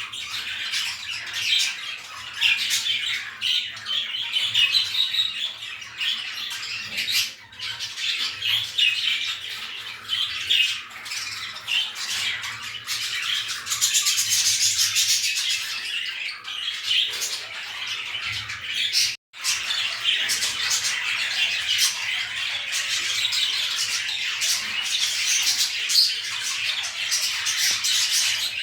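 Pet birds chattering and squawking without pause, a dense mix of high chirps and calls, broken by two brief dropouts about seven and nineteen seconds in.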